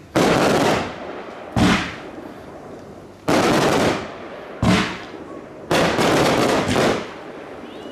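Fireworks display: shells bursting in a rapid series of bangs, some short and sharp, others drawn out over about a second.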